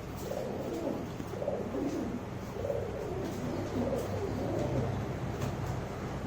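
Pigeons cooing over and over in low, warbling coos, with a few faint sharp clicks; the birds are squabbling over a spot.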